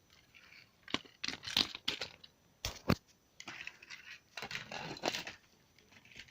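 Close handling noise: scattered clicks and knocks with rustling scrapes in between, two sharp knocks coming close together near the middle.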